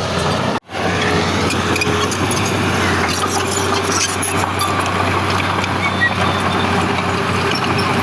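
Heavy diesel earthmoving machinery running steadily, with a constant low engine hum under mechanical clatter. The sound cuts out for a split second just over half a second in, then resumes unchanged.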